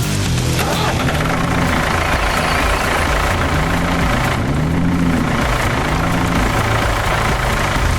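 Tractor engine running steadily, its pitch rising and falling a few times in the middle as it revs.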